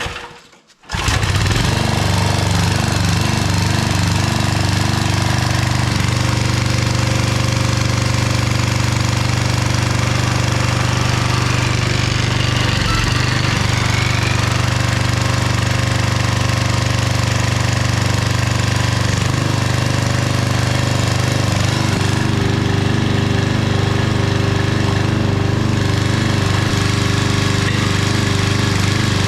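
Old 5 hp Briggs & Stratton single-cylinder engine on a homemade log splitter, pull-started and catching about a second in, then running steadily. Its earlier spitting and sputtering has been cured by a new spark plug.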